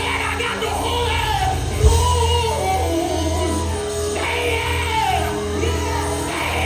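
Live gospel band music with a heavy, steady bass, while voices sing and shout in praise over it. A heavy thump stands out about two seconds in.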